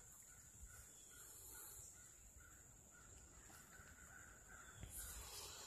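Near silence, with a faint call repeated evenly about two times a second, from a distant bird.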